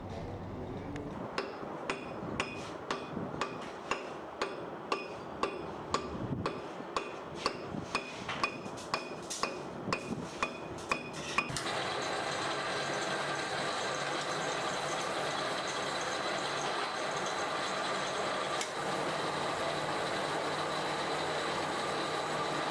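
A hammer striking steel in a steady rhythm, about two ringing blows a second, for some ten seconds. Then, about halfway through, a steady machine noise with a high whine starts suddenly and runs on.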